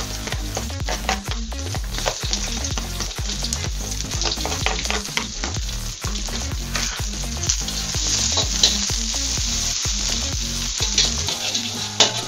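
Chopped garlic, shallots and onion sizzling steadily as they sauté in hot oil in a metal wok. Near the end a metal spatula scrapes and clinks against the wok as it stirs them.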